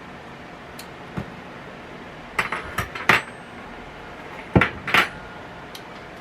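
Metal kitchen utensils and dishes clinking and knocking: a run of sharp clinks and knocks, bunched in two clusters a little past the middle.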